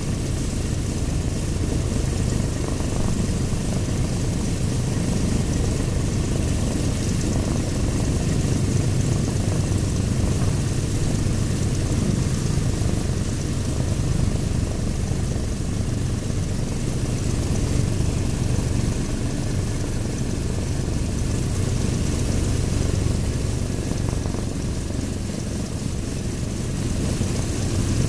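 Douglas A-26B Invader's Pratt & Whitney R-2800 radial engine running steadily on the ground, its propeller turning. The engine is firing on all cylinders.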